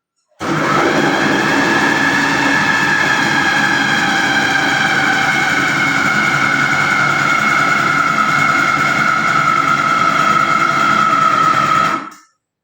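Electric yam pounder's motor running at full speed as its blades pound the cooked yam. It starts about half a second in, its steady whine sinks slowly in pitch, and it cuts off abruptly near the end.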